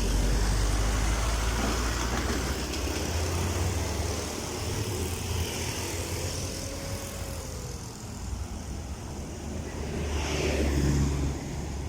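Road traffic with heavy vehicles: a steady low engine rumble and tyre noise, with one vehicle passing close and loudest about ten seconds in.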